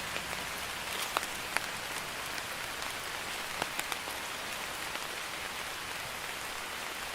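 Light rain, a drizzle, falling steadily as a soft hiss, with scattered individual drops ticking on a surface, a few louder ones in the first few seconds.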